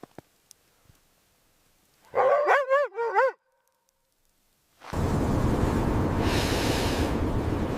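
A dog-like whining call about two seconds in, lasting about a second, its pitch wavering up and down. From about five seconds in, a steady loud rush of wind.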